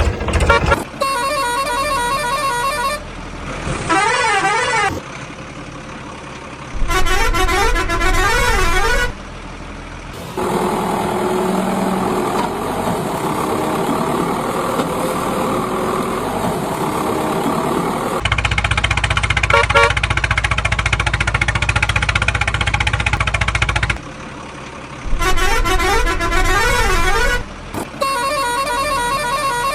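Vehicle horns sounding in repeated bursts, some in warbling, tune-like calls, alternating with longer stretches of engine rumble.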